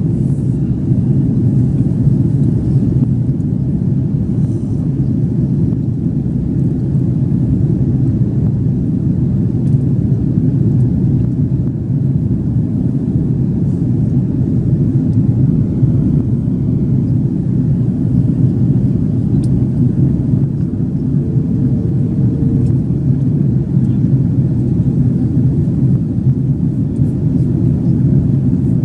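Cabin noise of an Airbus A330-300 airliner in flight: a steady, even rumble of engines and airflow, heard from a passenger seat inside the cabin.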